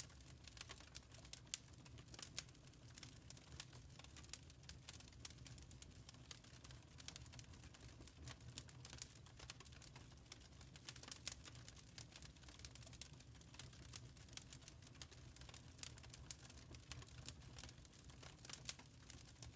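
Fireplace fire crackling faintly: many small, irregular snaps and pops over a low steady rumble.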